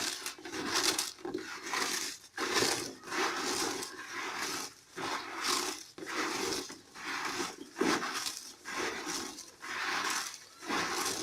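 Domestic birds feeding on broken pieces of bread: an irregular run of rough, scratchy pecking and scuffling noises, one or two a second.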